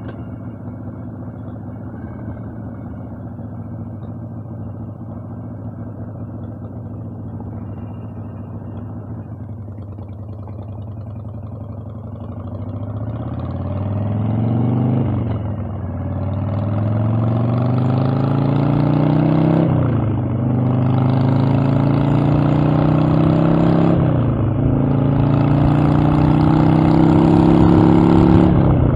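Harley-Davidson Evolution V-twin motorcycle engine running at low, steady revs, then accelerating through the gears from about halfway: the revs rise four times, each time dropping briefly at an upshift, and the engine grows louder.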